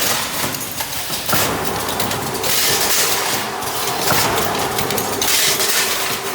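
Automatic spot welding machine with auto feeder running, spot welding square can lids. It goes in a repeating cycle of noisy surges every second or two over a steady machine hiss.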